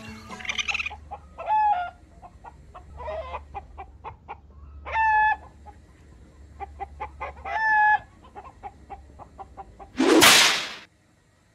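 Chicken clucking in a run of short quick notes, broken by three longer pitched calls a few seconds apart. Near the end comes one loud whoosh, the loudest sound here.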